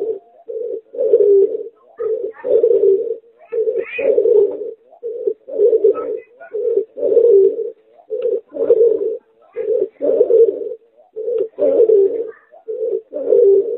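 Hybrid of a domestic pigeon and a spotted dove cooing over and over. Each phrase is a short low note followed by a longer one, repeating about every second and a half.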